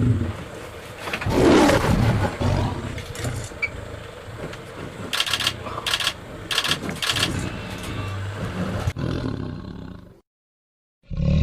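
Lion roaring: one loud roar about a second and a half in, then a run of shorter, quieter grunts.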